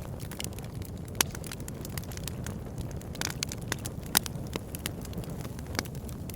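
Campfire burning, a steady low rumble with sharp, irregular crackles and pops from the burning wood, two louder pops about a second in and about four seconds in.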